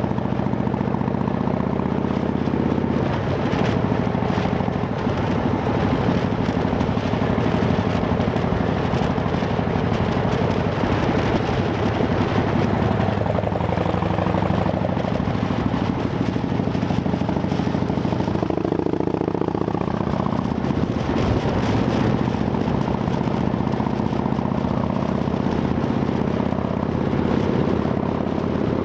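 Harley-Davidson Dyna Fat Bob's V-twin engine running steadily through Vance & Hines Shortshots exhaust pipes fitted with quiet baffles.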